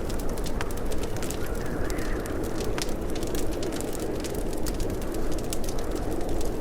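Wood fire crackling in a fireplace: a steady low rumble of flames with frequent sharp snaps and pops.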